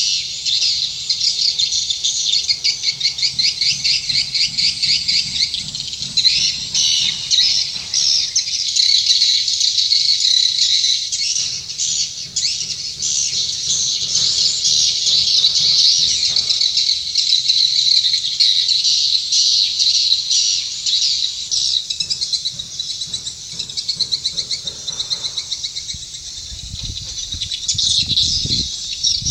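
Swiftlets twittering: a dense, continuous chatter of rapid high chirps, with low rumbling thumps near the end.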